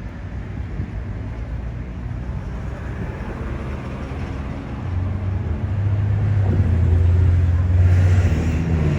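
Street traffic with a vehicle engine rumbling low. It grows louder about halfway through as the vehicle comes close, then eases off near the end.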